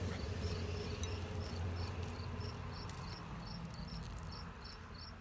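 A cricket chirping steadily, about three short high chirps a second, over a low steady hum.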